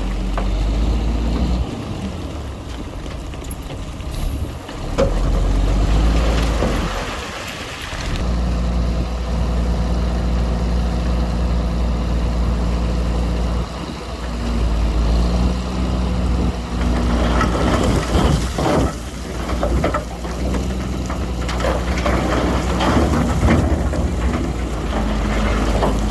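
Diesel engine of heavy earthmoving machinery running steadily, with a stretch of rattling and clanking about three quarters of the way through.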